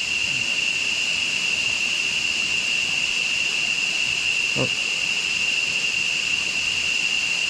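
A steady, unbroken high-pitched drone of jungle insects over the hiss of flowing river water. About four and a half seconds in there is one brief, short low call.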